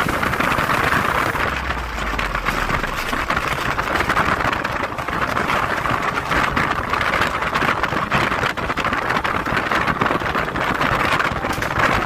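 Passenger train running, heard as a steady rushing noise of wheels on track and wind.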